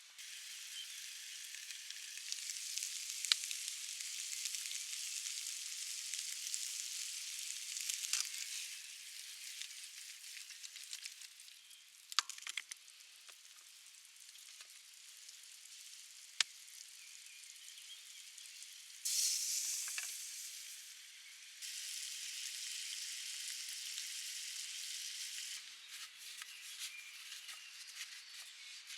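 Food sizzling as it fries, a steady hiss with occasional sharp pops. It steps abruptly louder and quieter a few times.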